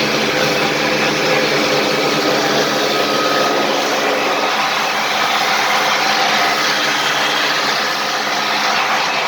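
Construction machinery engine running steadily, a dense mechanical drone with a hum of several held tones.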